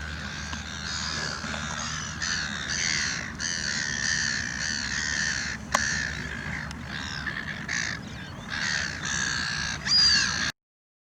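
A flock of birds calling nonstop, with many harsh, overlapping calls. There is a single sharp click a little past halfway, and the sound cuts off abruptly near the end.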